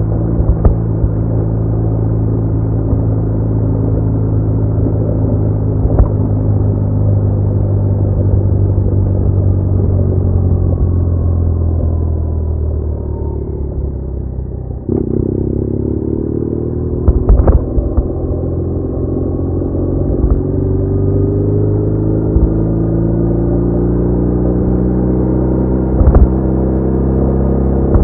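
BMW R1200R's flat-twin engine running under way, easing off and dropping in pitch a little before the halfway point, then picking up sharply and climbing steadily in pitch as the bike accelerates. A few sharp knocks come through along the way.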